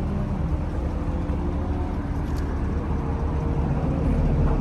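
Chevrolet Camaro SS V8 on its stock exhaust (mufflers, resonators and cats), warm and idling with a steady low rumble that gets a little louder about four seconds in.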